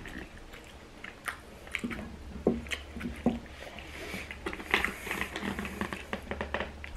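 A person chewing food close to the microphone, with scattered wet mouth clicks and smacks.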